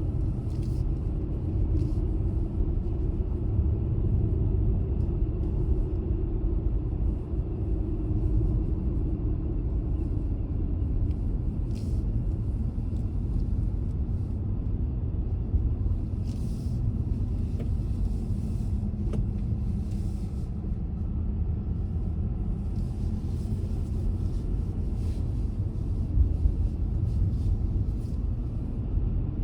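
Steady low rumble of a car driving, with a faint engine tone drifting slowly in pitch and short hissing bursts now and then.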